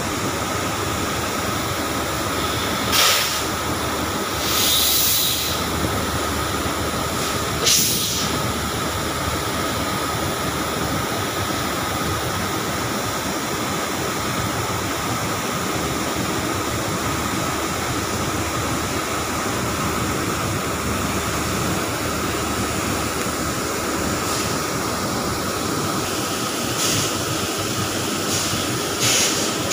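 Train running: a steady rushing noise with a constant high whine, broken by a few short hisses.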